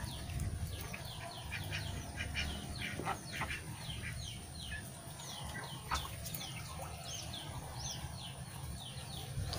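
Birds chirping: many short, quick falling chirps, several a second, over a low steady rumble.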